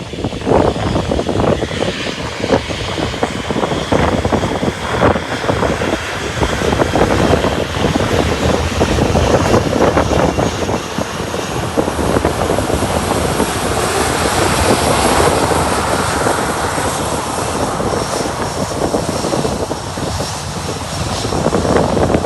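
Aircraft engines running at an airport, a steady engine rush that swells somewhat in the middle, mixed with gusty typhoon wind buffeting the microphone.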